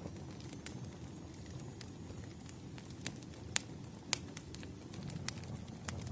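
Wood campfire burning: a steady low rumble of flames with irregular sharp pops and crackles from the firewood, the loudest pops a little past halfway.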